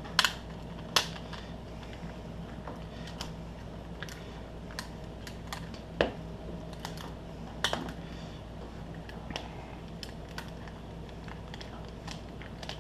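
Irregular light plastic clicks and clacks as a puzzle's pieces are turned and folded in the hands, a few louder snaps among them, over a steady low hum.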